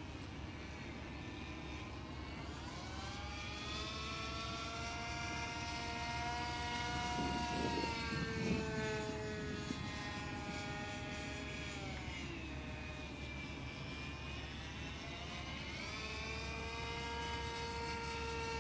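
OS 25FX two-stroke glow engine of a radio-controlled stunt plane running at high throttle in flight. Its pitch rises and falls several times as the plane flies past and turns. The engine has rusted internal bearings and can hardly be throttled down, and the owner says it sounds off.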